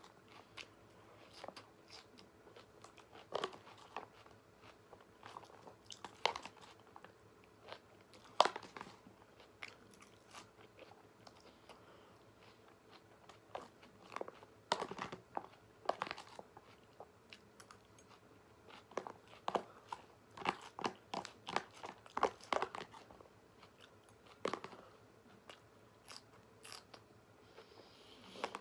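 A person chewing and biting food close to the microphone, with scattered sharp clicks in irregular clusters.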